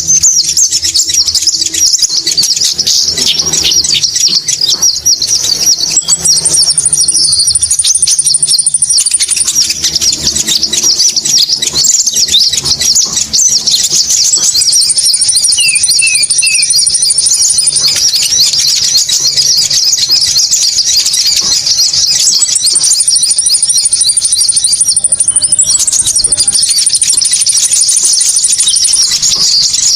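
Recorded konin bird calls played as a lure: a loud, unbroken rapid high chattering, with a long, thin, higher trill coming in several times for two or three seconds at a stretch.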